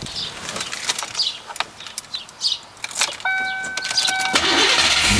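Ford Mustang being started: a steady electronic warning tone from the dash comes on about three seconds in and drops out as the starter cranks briefly, and the engine catches and settles into a steady run right at the end. This is a first start on a newly wired trunk-mounted battery with its starter fed through a solenoid.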